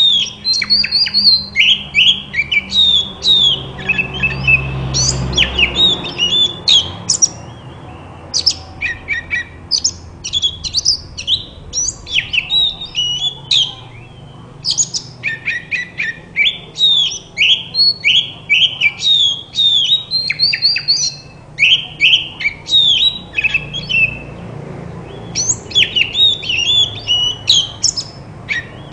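Oriental magpie-robin (kacer) singing a fast, varied run of high whistled and chirped notes, many sweeping downward, broken by short pauses near the middle and about three quarters of the way in.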